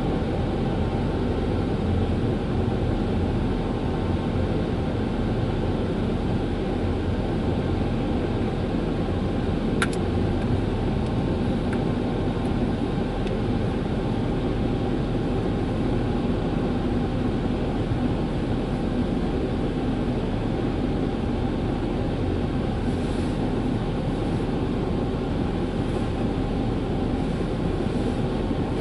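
Dryer blowers of a Ryko Softgloss Maxx automatic car wash running with a steady, loud rush of air as the wash ends its cycle. There is a single brief click about ten seconds in.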